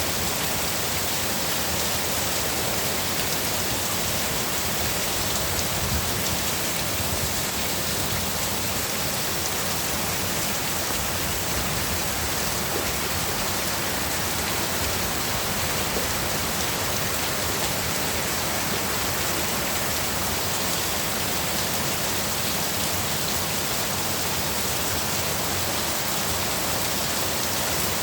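Heavy rain pouring down in a steady, dense hiss with no breaks.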